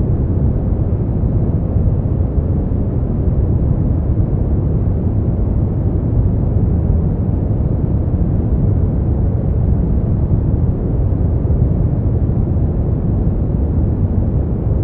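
Continuous sleep-aid noise track, the kind sold as white noise, but deep and rumbling in character with most of its weight in the bass and little hiss on top. It stays level, with no changes, tones or events.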